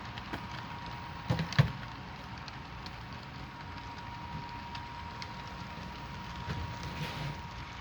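Model SD40T-2 locomotive and its train running: a steady hiss with a thin steady whine, broken by a few sharp clicks, the two loudest about a second and a half in.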